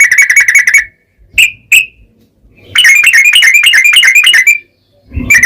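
Yellow-vented bulbul (trucukan) singing its rattling 'ropel' song: fast strings of sharp, loud notes at about eight a second. There are four phrases: one that stops just under a second in, two single notes, a long run in the middle, and a new run starting near the end.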